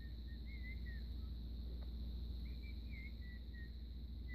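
Faint bird chirping: short wavering notes in two brief phrases, over a steady low background rumble.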